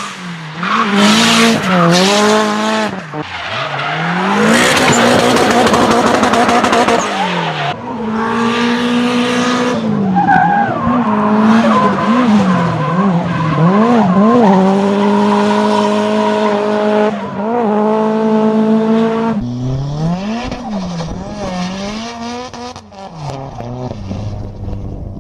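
A performance car engine revving hard, its pitch climbing and dropping again and again, with a long stretch of tire squeal a few seconds in. It settles to steadier, quieter running near the end.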